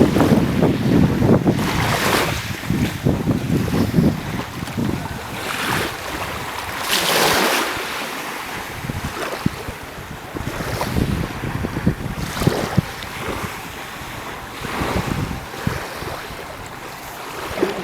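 Sea waves washing with wind buffeting the microphone, heaviest in the first few seconds, and a rush of water every couple of seconds, the biggest about seven seconds in.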